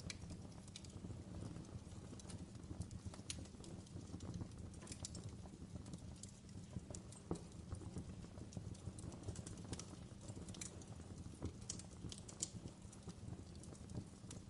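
Wood fire burning in a fireplace: irregular sharp crackles and pops of the burning wood over a low, steady rumble.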